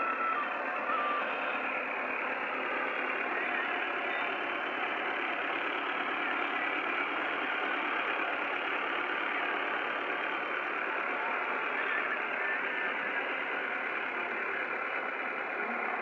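Diesel tractor engine running steadily at a low, even speed.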